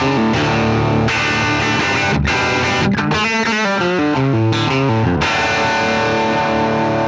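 Gibson Melody Maker electric guitar played through an amp with some overdrive: ringing strummed chords, broken about halfway by a quick run of single notes, then chords again.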